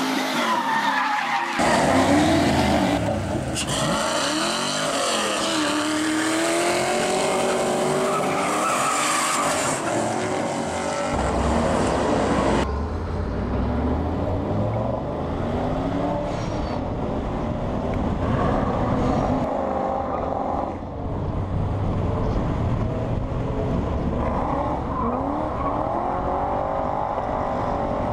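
Chevrolet S-10 drift pickup with Black Widow mufflers doing burnouts: its engine revs hard up and down with tyres squealing. After a sudden change about 13 s in, a car engine revs and pulls through the gears while driving, heard from a camera mounted on its hood.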